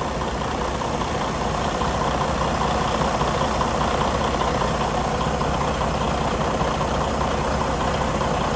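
Diesel engine of a 2019 Freightliner Cascadia semi truck idling steadily, left running after new fuel injector seals to check for diesel leaks.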